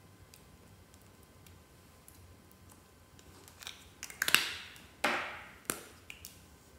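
Slime being worked by hand, with only a few faint ticks at first, then a run of sharp sticky clicks and two longer crackles that fade away, in the second half.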